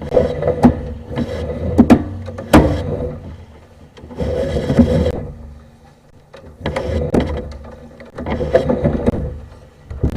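A sewer inspection camera's push cable being fed by hand into a drain line in repeated strokes, with sharp knocks and scraping every second or two.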